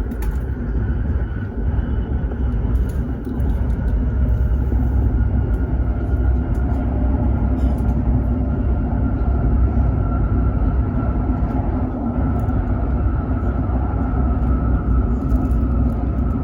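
Hokuriku Shinkansen train running at speed, heard inside the passenger car: a steady low rumble with a faint steady whine above it.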